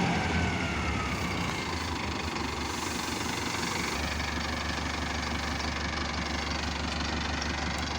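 Diesel engine of a Mahindra tractor-harvester running steadily with a low rumble, the hum evening out about halfway through.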